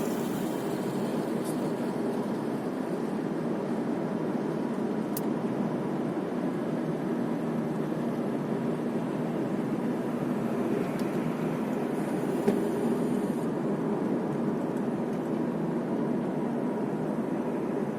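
Steady road and engine noise of a car being driven, an even low rumble with one faint click about two-thirds of the way through.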